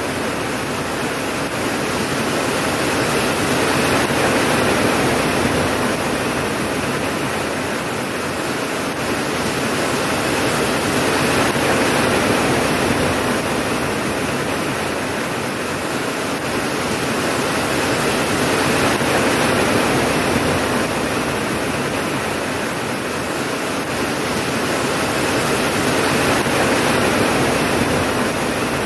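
Steady rain, a dense even hiss that slowly swells and eases every several seconds, with no thunder claps.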